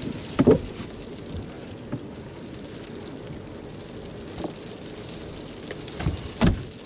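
Steady hiss inside a small camper, with a dull knock about half a second in and two more close together near the end.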